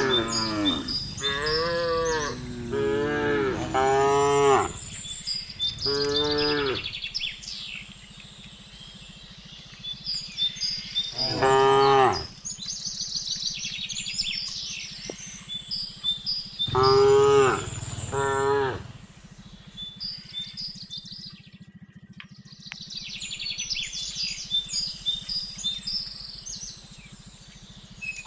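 Cows mooing repeatedly: a run of long moos one after another in the first few seconds, single moos a little later and about halfway, and a pair near two-thirds of the way in. Birds chirp steadily in the background.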